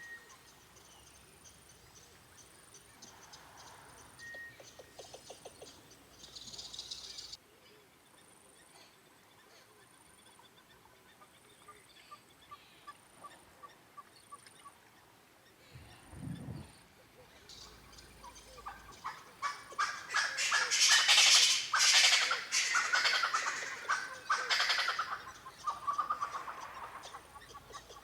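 Birds calling, in several separate stretches. The loudest part, in the second half, is a dense run of rapid, sharp calls.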